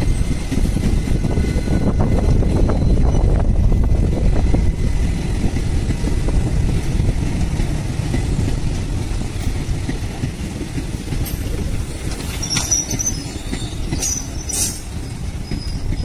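Blue Indian Railways passenger coaches rolling past on the rails: a continuous low rumble of wheels and bogies, with a few brief high-pitched wheel squeals near the end as the last coaches go by.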